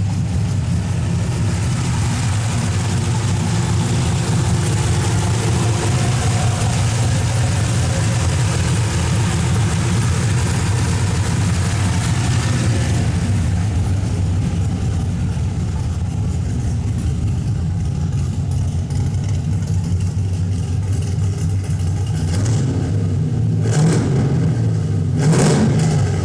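2001 Chevrolet Camaro's engine running steadily at idle, with a few short blips of the throttle near the end.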